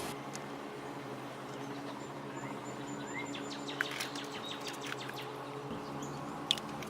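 Quiet room tone: a steady low electrical hum, with a few faint small clicks and taps around the middle and once near the end, and one short chirp about three seconds in.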